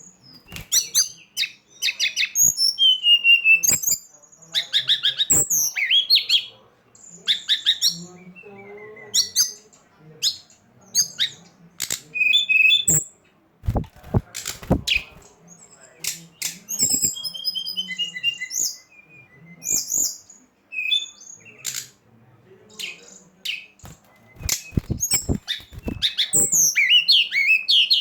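Songbird chirping and singing: rapid sharp chips, short whistled notes and fast trills in quick runs with short gaps. It is a recording used as a lure sound to prompt birds to call.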